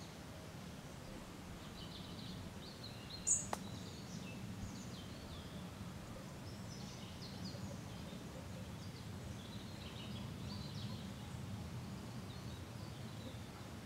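Small birds chirping and calling in short high notes over a steady low background rumble, with one sharp, louder chirp about three seconds in.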